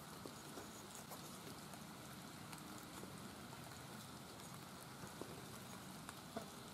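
Light rain falling: a faint steady patter with scattered individual drops ticking.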